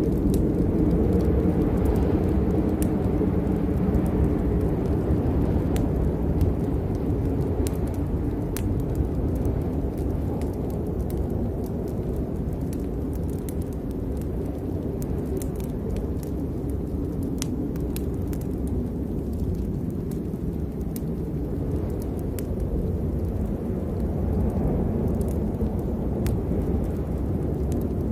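Steady rain with a deep continuous rumble underneath and scattered sharp drop ticks.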